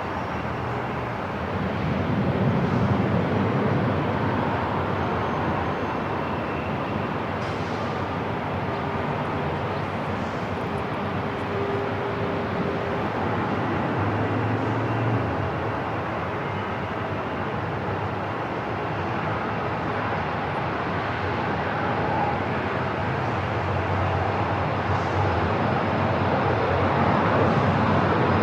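Airport ambience: a steady rumble and hiss of aircraft and building noise, with a faint tone held for a few seconds near the middle.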